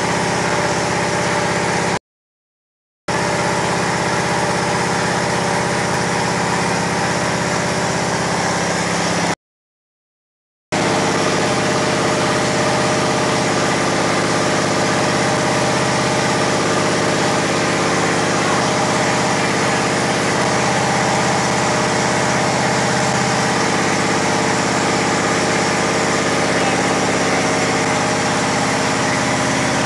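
Freshly rebuilt Chevrolet small-block V8 with a new camshaft, Vortec heads and intake, running at a steady, unchanging speed during the cam break-in run. The sound cuts out completely twice for about a second within the first eleven seconds.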